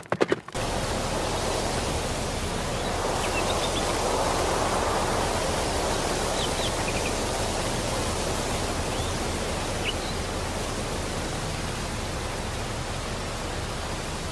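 Steady rushing noise, with a few faint high chirps.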